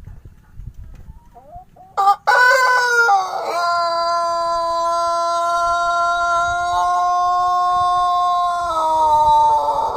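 Ayam pelung rooster crowing: one long crow begins about two seconds in, rises into a note held steady for about five seconds, then falls in pitch and trails off near the end.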